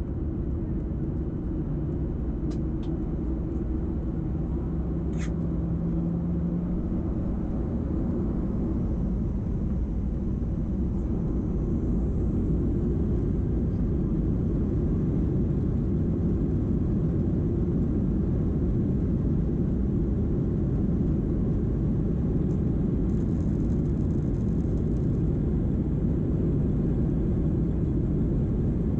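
Boeing 737 heard from inside the passenger cabin: a steady low rumble of engines and airframe on the ground, which grows louder about ten seconds in and then holds.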